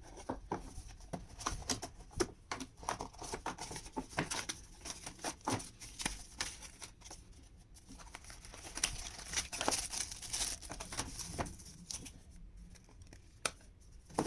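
Wireless earbuds' retail box being unboxed by hand: packaging torn and crinkled, with many scattered small clicks, taps and rustles.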